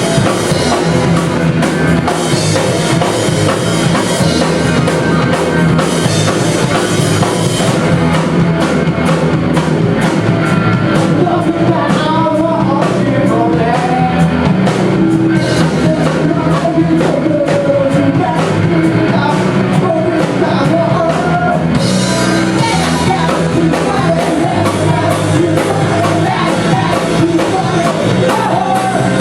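A rock band playing live: drum kit, bass and guitars with a singer's voice, heavier cymbals in the first several seconds and again about two thirds of the way in.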